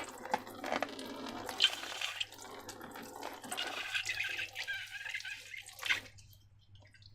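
Wet, liquid sounds of slime mixture being handled, irregular and stopping abruptly about six seconds in.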